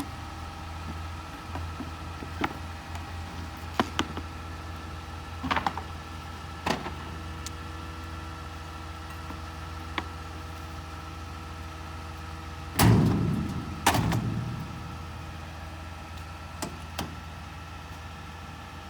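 Garbage truck engine idling with a steady hum, with scattered sharp knocks and clanks. Two loud bangs come about two-thirds of the way through, about a second apart.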